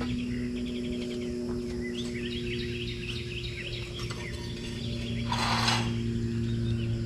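Small birds chirping repeatedly over a steady low mechanical hum, with a brief hiss about five seconds in.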